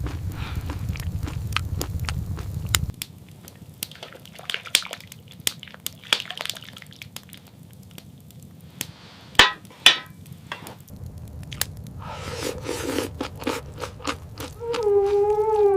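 Crunching and crackling with many scattered clicks, and two sharper knocks about halfway through. Near the end, a long howl begins and falls slowly in pitch.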